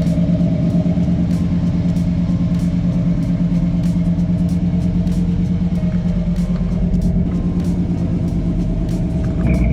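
Old pickup truck's engine idling steadily after a cold start, its note shifting slightly just before the end. It is running rich, which the owner blames on fuel pressure and thinks needs a fuel regulator.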